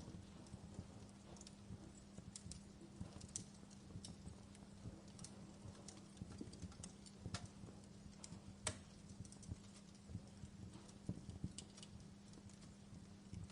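Wood fire crackling in a fireplace: irregular small pops and snaps with a sharper pop about nine seconds in, over a faint low rumble and a steady low hum.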